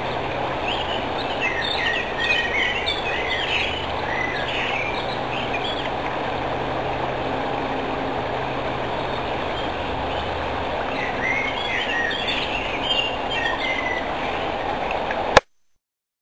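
Small birds chirping in two spells over a steady rushing noise. The birdsong and noise cut off abruptly near the end.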